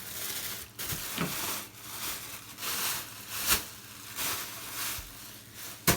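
Plastic bag rustling and crinkling as old toilet tank parts are handled, with a couple of sharp light knocks, one about three and a half seconds in and one near the end.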